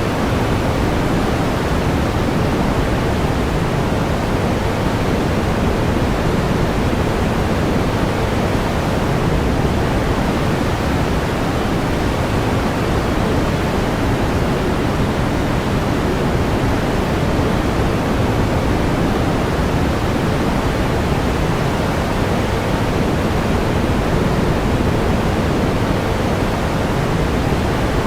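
Pink noise: a steady, even hiss weighted toward the low end, unchanging throughout.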